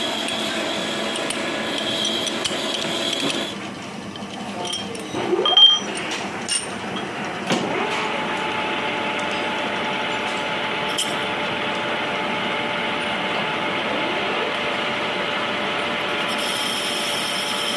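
A workshop machine tool running steadily. About three and a half seconds in it drops away briefly, a few sharp metal knocks follow, and then it runs on evenly with a faint steady tone.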